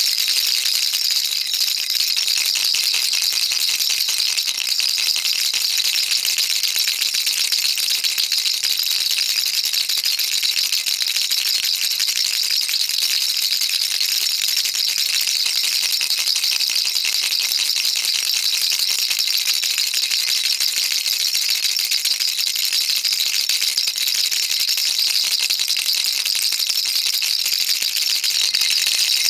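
Baby rattle shaken without pause, a dense, even, high-pitched rattle of small beads inside it.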